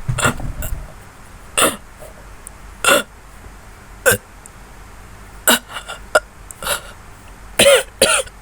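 A person making repeated short burping noises on purpose, about nine separate bursts roughly a second apart, the loudest two near the end.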